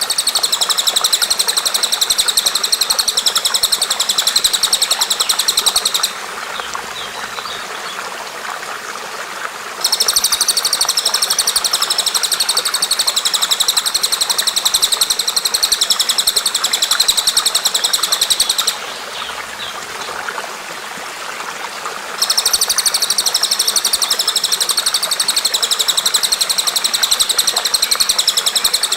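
Recorded bird calls: a rapid, high-pitched chattering trill delivered in long bouts. It breaks off about six seconds in, resumes for about nine seconds, breaks off again, and resumes for the last seven seconds. A steady hiss runs underneath.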